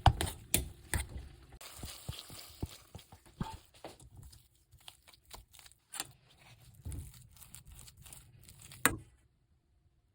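Kitchen prep handling sounds: a run of sharp knocks and clicks of utensils and containers mixed with rustling and crinkling. It stops about nine seconds in.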